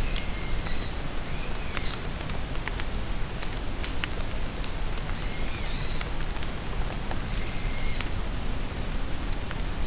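Steady rain falling in a forest, with scattered drops ticking close by. A bird gives four short, high calls: two in the first two seconds and two more in the second half.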